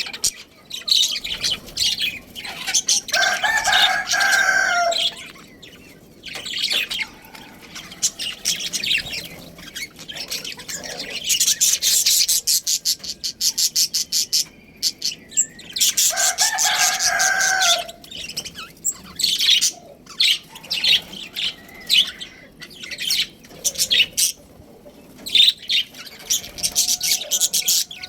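A flock of budgerigars chattering and chirping rapidly and continuously. A rooster crows twice over them, once about three seconds in and again about sixteen seconds in, each crow lasting roughly two seconds.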